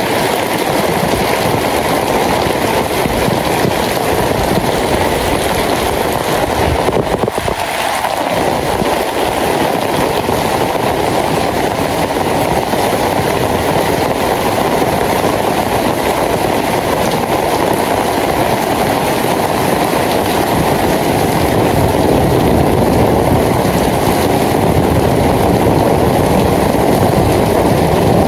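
Rain falling steadily, an even wash of noise that briefly dips about a quarter of the way in and grows a little louder in the last third.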